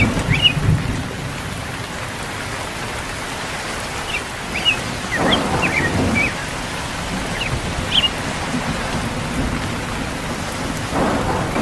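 Steady rain falling, with low rolls of distant thunder swelling near the start and again about halfway through. A few short high chirps sound over the rain.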